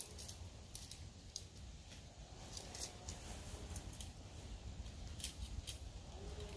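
Irregular sharp clicks and snips, a few each second, over a low rumble.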